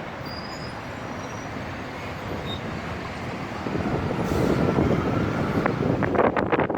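Stormy wind gusting in a steady rush that swells and gets louder about halfway through, with a few sharp knocks or rattles near the end.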